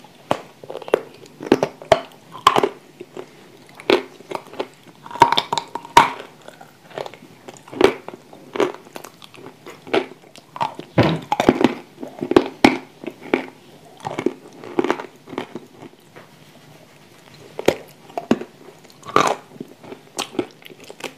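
Crunchy bites and chewing of dry edible clay chunks close to a clip-on microphone: irregular sharp crunches, with a quieter stretch of softer chewing in the middle.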